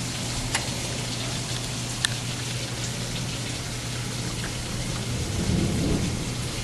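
Steady rain falling, an even hiss with a few sharp drop hits, over a steady low hum; a low rumble swells about five seconds in.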